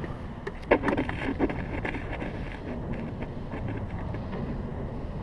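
A hose and its hose clamp being handled onto an aircraft engine's oil cooler: a few short knocks and clicks about a second in, over a steady low wind rumble.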